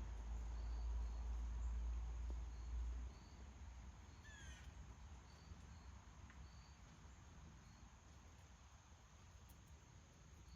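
Faint outdoor ambience with short high chirps repeating about once a second and a brief bird call of three quick downward notes about four and a half seconds in. A low rumble fills the first three seconds.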